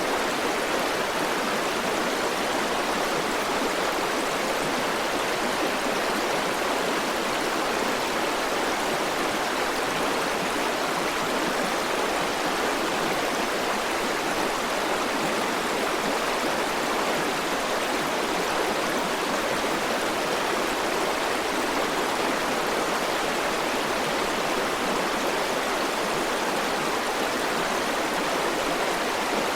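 A river running over rocks, a steady, even rush of flowing water.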